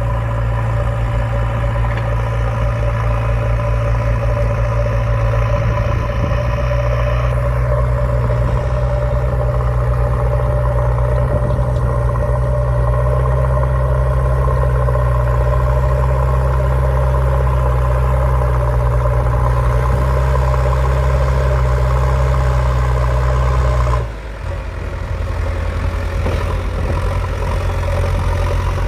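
Motor-vehicle engine idling steadily with a low rumble. About 24 seconds in, it switches abruptly to a lower, slightly quieter idle.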